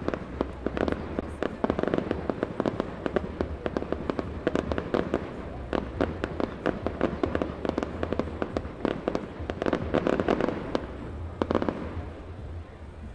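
Fireworks display: aerial shells bursting in rapid, dense volleys of bangs and crackling, dying down just before the end.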